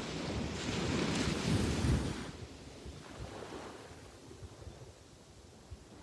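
Sea waves at a beach: a wave swells up and breaks loudly about two seconds in, then its wash dies away into a softer hiss.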